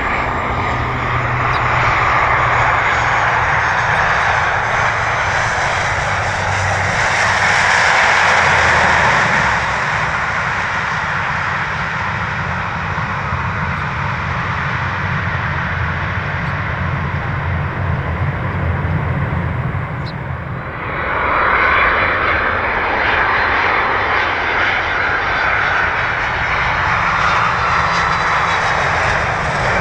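Bombardier DHC-8-400 turboprop airliner landing, its propellers and engines giving a loud, steady drone with low humming tones. About 21 seconds in, the sound cuts to a Boeing 767-381ER's jet engines on its landing approach.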